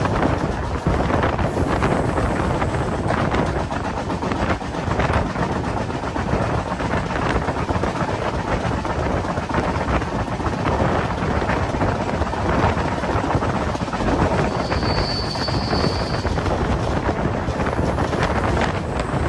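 A moving train: continuous rumble and rattle of wheels running on the track. About fifteen seconds in there is a brief, thin, high-pitched squeal.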